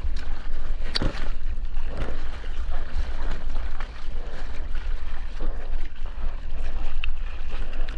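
Ocean water rushing and sloshing around a surfer, with wind buffeting the GoPro's microphone: a steady rushing noise with a low rumble and a sharp splash about a second in.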